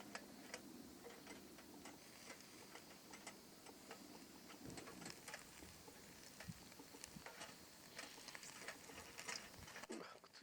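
Faint, irregular crackling and ticking of a small wood or charcoal fire, several sharp ticks a second.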